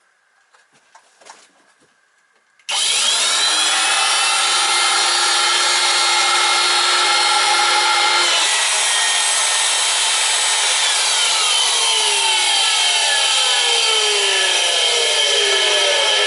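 Numatic Henry HVC200 vacuum cleaner's brushed commutator motor, out of its case, switched on about three seconds in with a loud whine that quickly winds up to speed. Its pitch holds steady, then falls steadily through the second half. It is a bench test run to check for sparking at the commutator, and the motor shows no excessive arcing: fairly healthy, needing only a clean.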